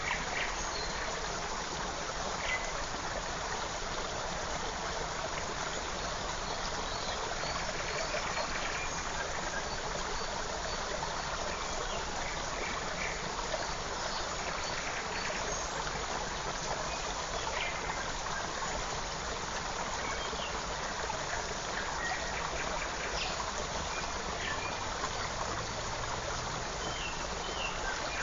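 Forest creek flowing steadily, with a few short bird chirps scattered over it.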